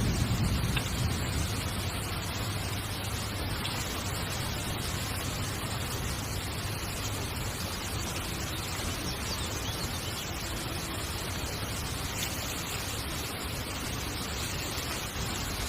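Heavy rain falling steadily on a tent, an even hiss with a low rumble underneath that is a little stronger in the first second or so.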